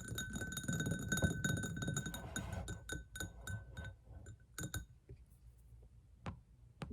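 Fingernails tapping fast on glass nail polish bottles, each tap giving a ringing glassy clink. The taps thin out after about five seconds to a few scattered single taps.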